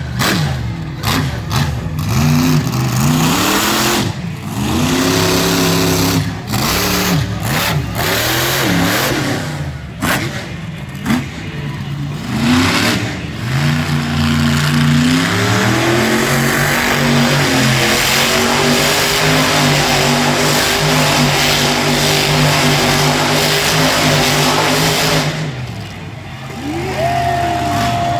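A big truck engine revving hard in repeated rises and falls, then held at high revs for about ten seconds before it drops off near the end.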